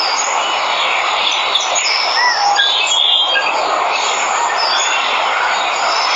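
Steady rush of falling water with birds chirping and whistling over it in short, scattered calls.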